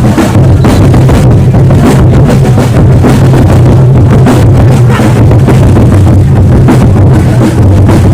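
Ultras' bass drums beaten hard and continuously in a fast supporters' rhythm, very loud and overloading the microphone.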